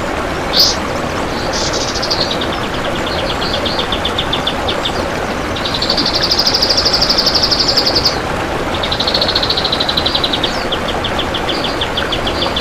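Kapas tembak singing in long runs of fast, close-set repeated high notes, two of them swelling into louder, longer trills in the middle. Under the song is a steady background hiss.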